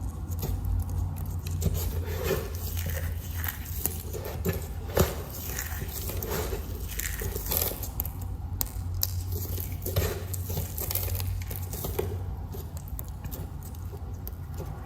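Knife cutting through a bar of crunchy soap, a run of crisp crunching and crackling as the blade goes through, with a sharper snap about five seconds in and another about ten seconds in.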